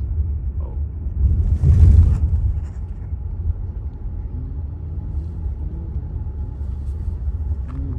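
Steady low rumble, with a louder swell of hiss about two seconds in.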